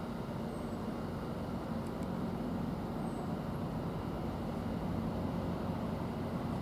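Greater Anglia Class 720 electric multiple unit pulling away from the platform: a steady low hum of the train's traction and running gear.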